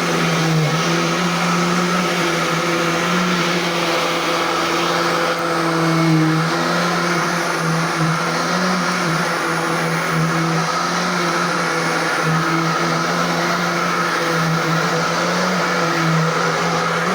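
Royal Classic Edition upright vacuum cleaner running continuously, a steady motor hum with hiss whose pitch wavers slightly and rises a little near the end.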